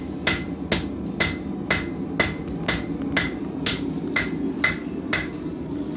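Blacksmith's hammer striking hot steel on an anvil at a steady pace of about two blows a second, each blow ringing briefly. The blows stop near the end, and a steady low hum runs beneath them.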